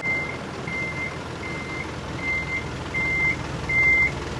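A vehicle's reversing alarm beeping at one high pitch, evenly about every three quarters of a second, six beeps, over a low engine running.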